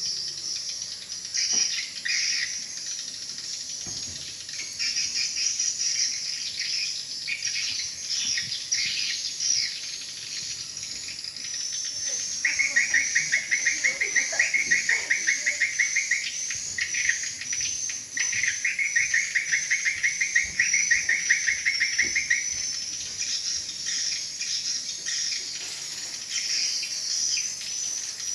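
Swiftlet calls: a continual twittering of high chirps, with two long rapid trills near the middle, each lasting about four seconds.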